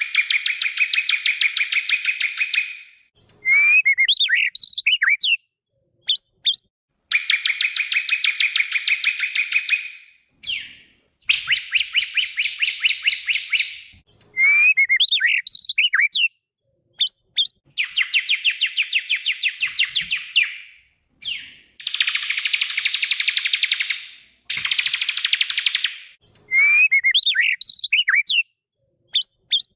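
White-rumped shama (murai batu) singing: short phrases of varied sweeping whistles alternate with longer fast, rattling trills, over and over with brief pauses between.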